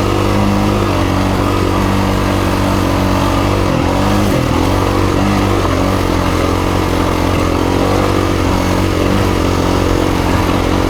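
2017 KTM 350 EXC-F's single-cylinder four-stroke engine running steadily under throttle as the dirt bike rides up a two-track, with a brief dip in revs about four seconds in.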